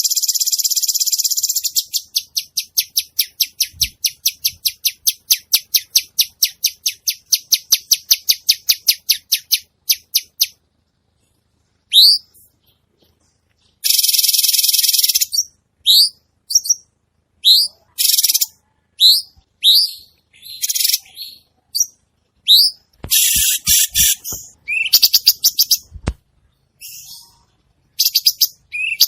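Cucak cungkok songbird singing: a long buzzy trill breaking into fast repeated chirps, about five a second, for some ten seconds. After a short pause it gives a string of short rising whistles mixed with bursts of rapid trilling. A few low thuds sound near the end.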